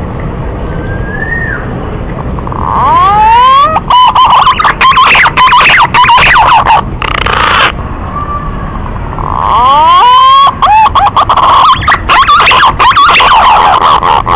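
Male green pigeon (punai) calls: a short rising whistle, then two long runs of whistled notes, each opening with a few rising glides and going into a rapid warbling series. It is very loud and distorted.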